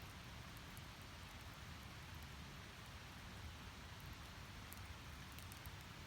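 Wood fire burning in a small steel fire pit: a faint steady low rumble and hiss of the flames, with a few sparse crackles from the firewood, a small cluster of them about five seconds in.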